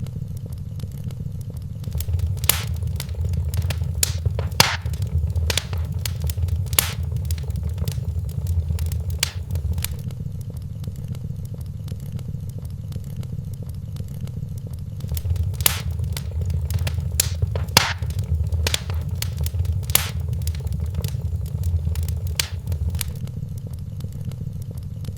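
Wood fire crackling in a fireplace: irregular sharp pops and snaps over a steady low rumble of the burning fire. The rumble swells twice, for several seconds each time.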